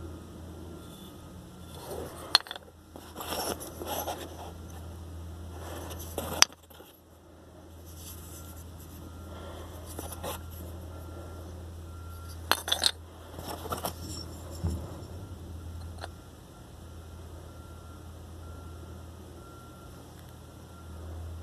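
Hard stones clicking and scraping against each other as they are handled: a few sharp knocks about two, six and twelve seconds in, with rubbing scrapes between them. A steady low hum runs underneath.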